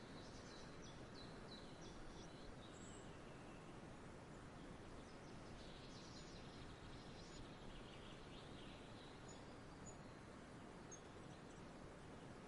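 Faint songbirds chirping in short twittering runs, with a few single high peeps later on, over a steady low outdoor background hum.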